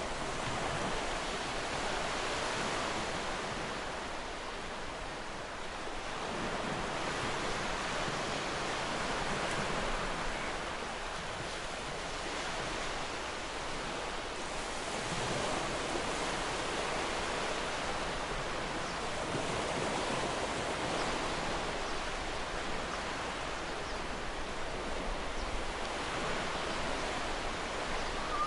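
Ocean surf washing onto a beach: a steady rush of waves that swells and eases every several seconds.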